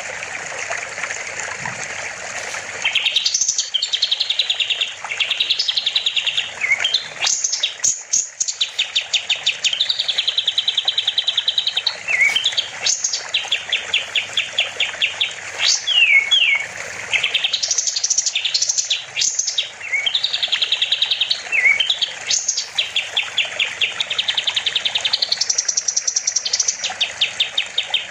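Kapas tembak bulbul singing loudly in long runs of rapid trilled notes, broken by sharp rising and falling whistles. The song comes in about three seconds in, over the hiss of running water.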